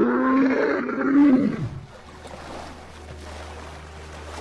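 A lion's loud, drawn-out roaring call that rises and falls in pitch. It lasts about the first second and a half, then gives way to a quieter low, steady hum.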